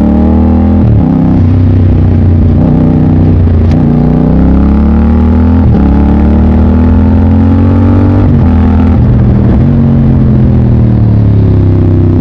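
Motorcycle engine accelerating hard through the gears, its pitch climbing and then dropping sharply at each upshift, four times. Near the end the revs ease off and fall.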